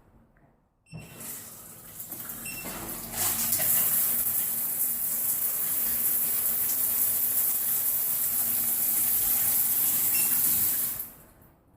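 Water running hard from a newly plumbed fixture: it is turned on about a second in, opens to full flow about three seconds in, runs steadily and is shut off near the end.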